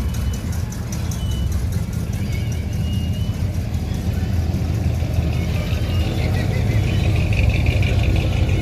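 Classic car and truck engines running in slow traffic: a steady low rumble that swells slightly toward the end.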